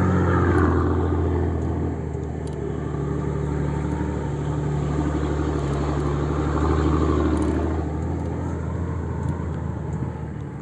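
Car engine running steadily under load with a low, even hum, easing off a little about two seconds in and picking up again near seven seconds, as the vehicle climbs a steep rocky dirt track.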